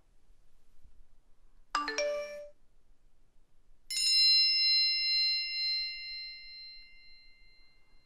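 Two phone alert tones: a short two-note chime about two seconds in, then a bright bell-like ding about four seconds in that rings on and slowly fades.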